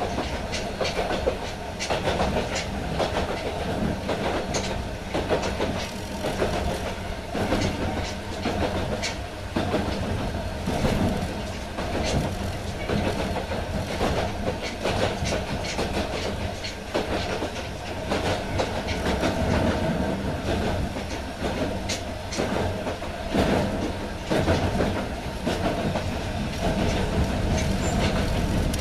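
A Yokkaichi Asunarou Railway narrow-gauge train running, heard from the car floor: a steady rumble with frequent clicks and knocks of the wheels over the track.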